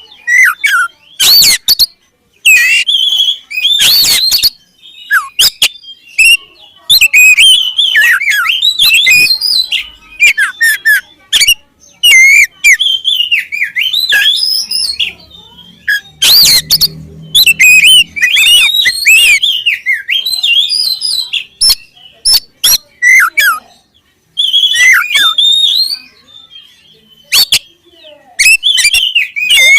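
Oriental magpie-robin (kacer) singing loudly in quick bursts of varied whistled and warbled phrases, mixed with sharp clicking notes and broken by short pauses.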